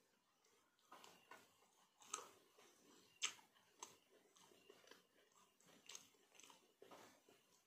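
Faint chewing of a mouthful of rice and banana curry: soft, irregular wet clicks and lip smacks, one sharper smack a little past three seconds in.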